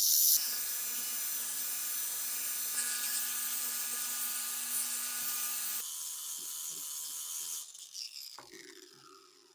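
A small electric rotary tool runs steadily with a hissing whine for about six seconds. It then drops lower and winds down, its whine falling in pitch as it coasts to a stop.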